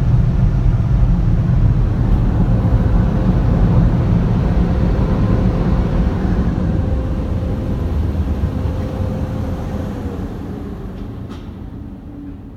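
Car wash tunnel dryer blowers running with a loud, steady roar and a faint steady whine. The sound fades over the last few seconds as the car pulls clear of them.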